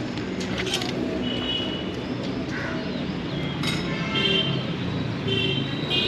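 Several short, high bird calls and chirps, spaced a second or more apart, over a steady hum of street traffic.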